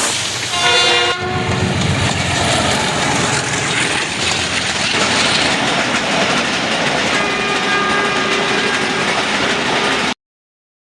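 A passenger train running on the rails, a loud steady rush of wheel and track noise. A short horn blast sounds about a second in and a fainter, longer horn around seven to nine seconds. The sound cuts off suddenly just before the end.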